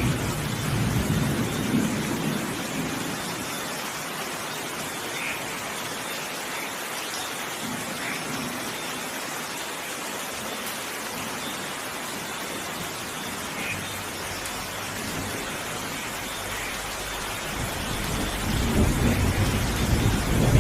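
Steady rain falling in a thunderstorm. A low rumble of thunder dies away over the first few seconds, and another rumble builds near the end.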